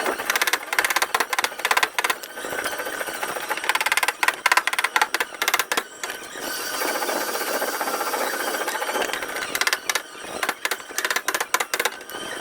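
Rapid light tapping on a car's sheet-metal body panel, typical of paintless dent repair tap-down work. A steadier noise takes over for a few seconds in the middle, then the tapping resumes.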